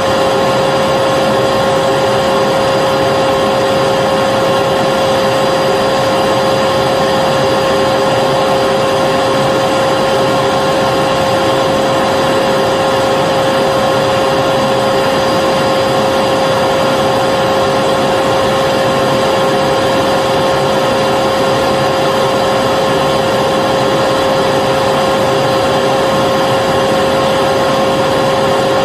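Vacuum cleaner running steadily: an even motor whine with a steady high tone over the rush of air, unchanging throughout.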